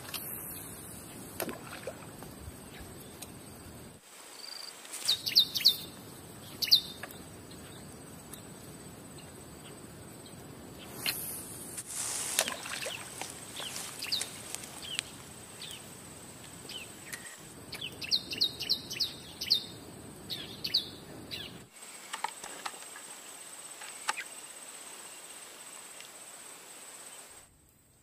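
Birds chirping in quick runs of short, high notes, loudest about five seconds in and again about eighteen to twenty-one seconds in, over a steady outdoor hiss.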